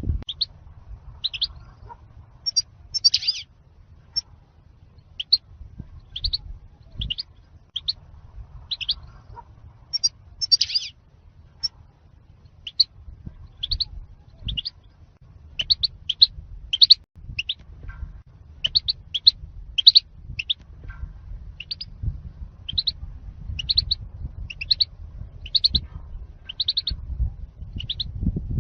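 European goldfinch singing the song style called 'zalzal' ('earthquake'): short, high chirps repeated about one or two a second, over a low steady rumble.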